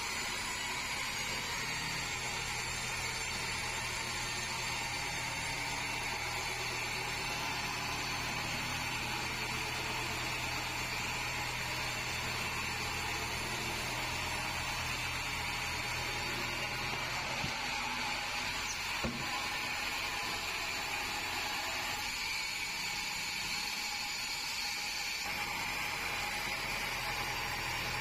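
Band sawmill running steadily as it saws red meranti timber: a constant machine whine and hum, with a single sharp knock about two-thirds of the way through.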